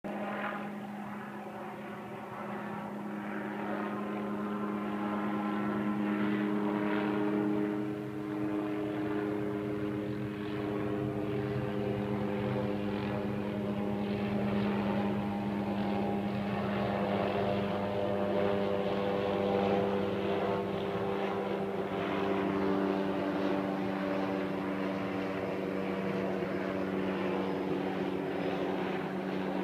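Helicopter flying overhead: a steady engine and rotor drone whose pitch shifts slightly a few times as it passes.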